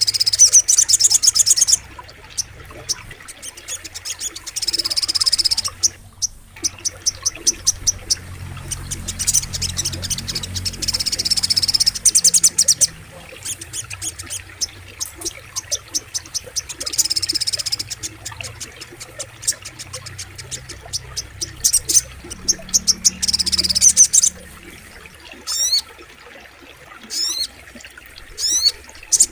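Little spiderhunter (sogok ontong) singing: high, rapid chattering trills in bursts of a second or two, repeated every few seconds, with quick rising whistles near the end. A faint low rush of flowing water runs underneath.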